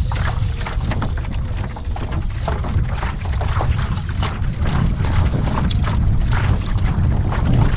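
Wind buffeting the microphone as a steady low rumble, with irregular small splashes and ticks of water slapping against a kayak hull.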